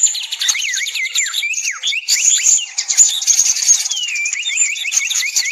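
Songbirds chirping together: many quick, overlapping whistled notes sliding up and down, over a steady high-pitched buzz.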